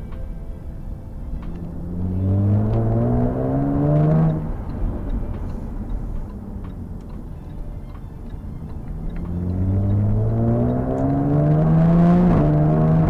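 Jaguar F-Type S's 3.0-litre supercharged V6 accelerating twice: the engine note climbs steadily in pitch for about two to three seconds, drops away suddenly, and climbs again about nine seconds in before dropping once more near the end.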